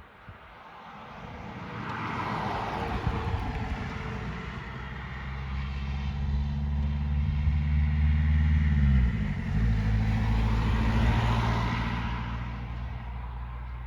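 A motor vehicle passing by. It grows louder over several seconds, and its engine hum drops in pitch as it goes past, about nine seconds in, then fades away.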